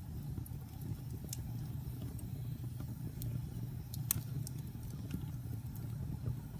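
Wood fire burning in a fireplace: a steady low rumble with sharp crackles and pops at irregular intervals, the loudest pop about four seconds in.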